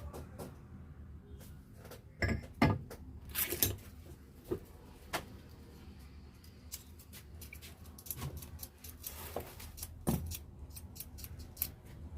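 Scattered metallic clinks and knocks of tools and alternator parts being handled during the alternator's reassembly. The loudest are a few sharp knocks between about two and four seconds in, over a low steady hum.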